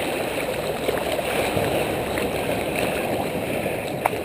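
Seawater churning and sloshing close around a GoPro as a steady rushing noise, with a single sharp click near the end.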